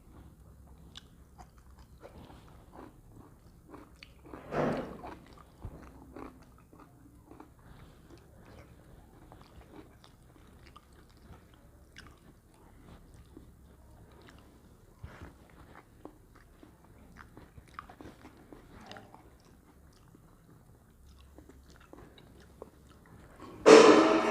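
A person chewing and eating food, with many small wet mouth clicks and crunches. There is a louder burst about four and a half seconds in, and a loud sudden sound just before the end.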